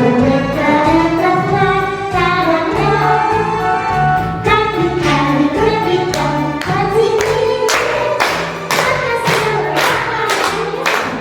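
Singing with instrumental accompaniment: a sung melody over a repeating bass line, with percussive beats coming in more strongly in the second half.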